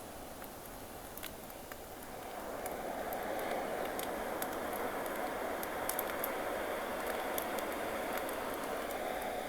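Campfire crackling with scattered sharp pops, while a sea wave swells in about two seconds in and washes on as a steady rush.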